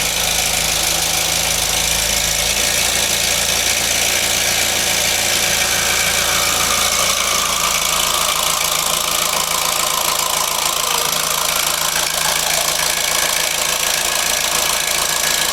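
Opel Corsa petrol engine idling with its valve cover off, running steadily with a crackling rattle that the mechanics place on the timing-chain side, where a timing chain or guide fault is suspected.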